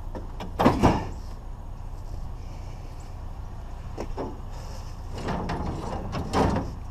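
Heavy knocks and clunks, two loud ones a little over half a second in and another near the end, over a steady low hum.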